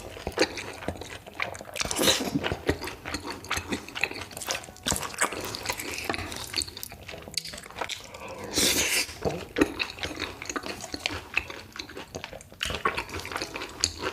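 Close-miked eating of spicy noodles: wet chewing clicks and smacks throughout, with two longer noodle slurps, about two seconds in and again around nine seconds in.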